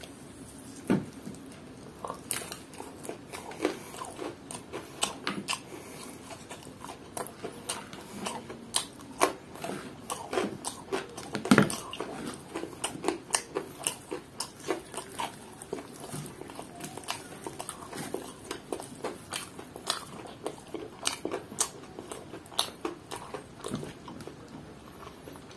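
Close-up eating sounds of a crispy fried chicken breast: biting and chewing through the crunchy fried coating, with many sharp crackles throughout and one louder crack about halfway through.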